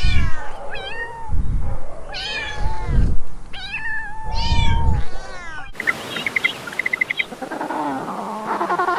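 Domestic cat meowing: a series of loud, drawn-out meows over about six seconds. Then a different recording cuts in, with rapid high chirps and, near the end, lower pitched bird calls.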